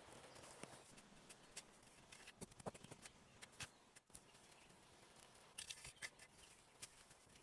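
Faint, irregular small clicks and snaps, bunched together about two and a half seconds in and again around six seconds in.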